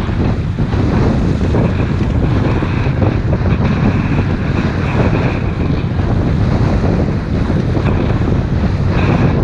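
Wind buffeting the microphone on a moving motorboat, over the steady noise of the boat running across the water.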